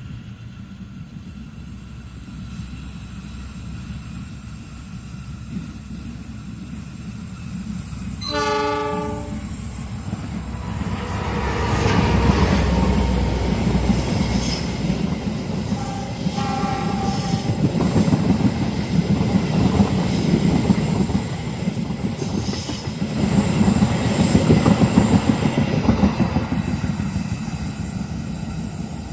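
A train approaching and running past: a low rumble builds, the locomotive horn sounds for about a second roughly eight seconds in and briefly again about halfway through, then the wheels clatter steadily over the rails as the long train goes by, with a high wheel squeal near the end.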